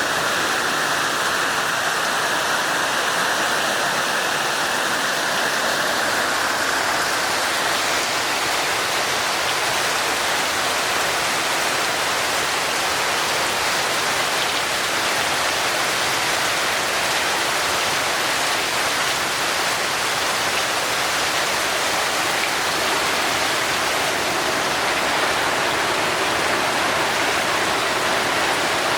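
Heavy, torrential rain pouring steadily, a dense even hiss with no breaks.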